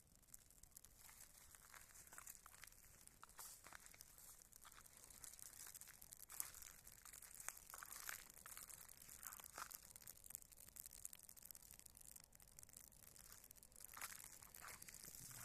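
Wood fire crackling faintly, with a steady high hiss and scattered small pops, a few louder ones in the middle and near the end.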